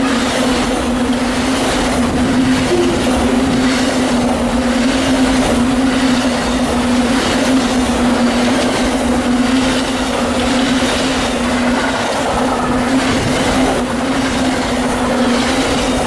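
A long Amtrak Auto Train of enclosed autorack cars rolling past at speed: steady rumble and rail noise with a steady droning tone over it, and a regular beat of wheel clatter as the cars' trucks go by. The last car passes near the end.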